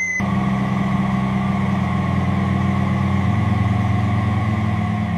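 Engine of a piece of heavy machinery running steadily at low revs, a constant low drone whose note shifts slightly about three seconds in.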